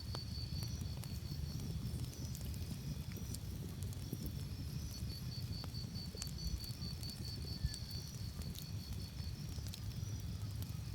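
Campfire crackling, with scattered sharp pops over a low steady rumble, and a cricket chirping in a fast pulsed trill that pauses for a few seconds shortly after the start.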